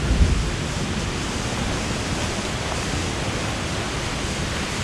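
Waterfall rushing in a steady, even roar of falling water, with a brief low thump right at the start.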